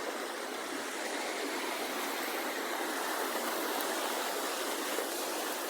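Floodwater in a rain-swollen creek rushing steadily.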